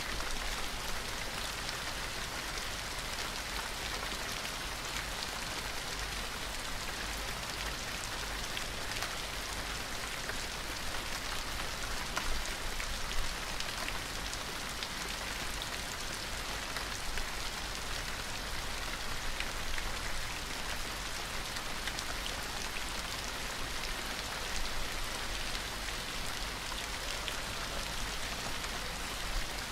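Steady gentle rain: an even patter of many drops landing on a surface, with a few slightly louder drop hits here and there.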